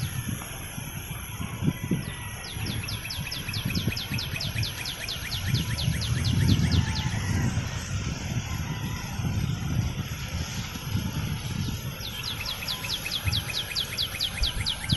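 A bird calling in long rapid trills of evenly spaced high chirps, about ten a second. One run starts about two seconds in and lasts several seconds, and another comes near the end. Underneath is a low gusty rumble and a thin steady high whine.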